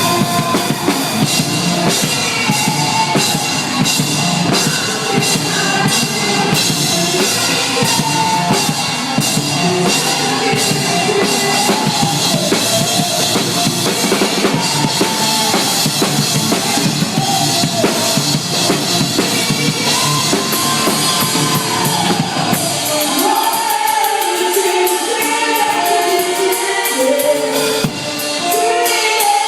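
Live rock band playing a song: drum kit with bass drum and snare driving under guitars and a singing voice. About three-quarters of the way through, the deep bass and kick drop out, leaving the higher guitar and vocal lines with cymbal strokes.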